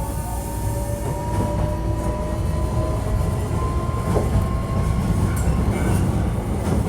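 Hankyu 1300 series electric train running, heard from inside the car: a steady low rumble of wheels on rail with a thin motor whine that rises slowly in pitch as the train gathers speed.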